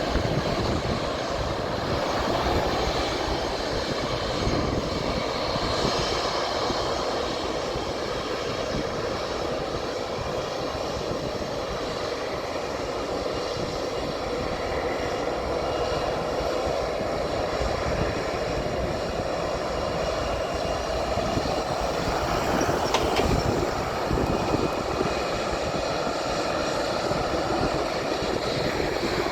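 Jet airliner engines running with a steady noise that swells slightly a little past two-thirds of the way through.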